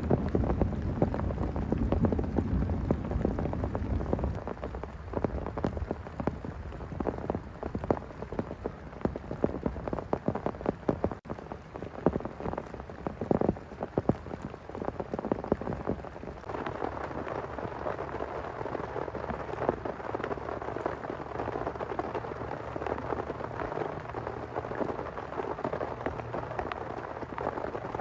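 Heavy rain falling, with many separate drops striking, under a low rumble of thunder that fades out over the first few seconds. A little past halfway the rain turns heavier and steadier.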